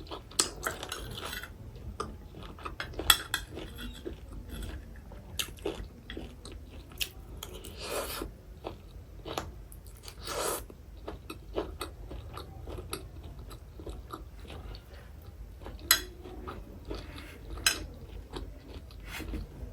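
Close-up eating: wet chewing with crunchy bites and occasional clinks of a spoon on a plate, in many short crackles and a few louder snaps.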